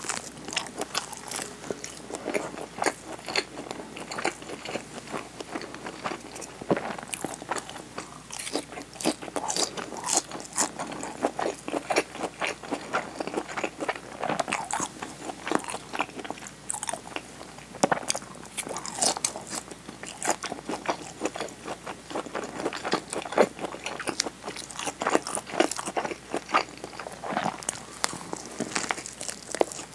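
Close-miked biting and chewing of a nori-wrapped onigiri rice ball: repeated crunchy bites and wet chewing with many sharp, irregular mouth clicks.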